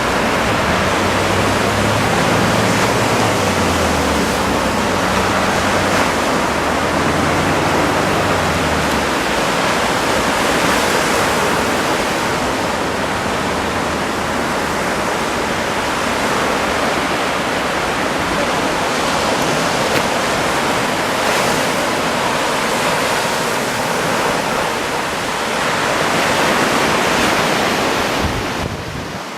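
Surf on a sandy beach: small waves of a flat-calm sea washing in and out as a steady rush. A low hum lies underneath for about the first nine seconds.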